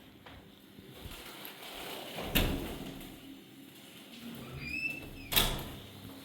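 Two sharp knocks about three seconds apart, with a short squeak just before the second.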